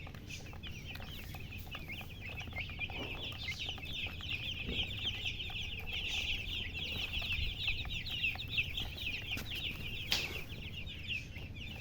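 A brood of baby chicks peeping continuously, many short high chirps overlapping, over a low steady hum. A single sharp knock about ten seconds in.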